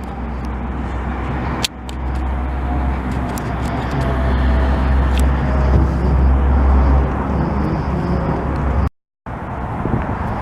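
Wind buffeting a handheld camera's microphone outdoors: a steady low rumble that cuts out for a moment near the end.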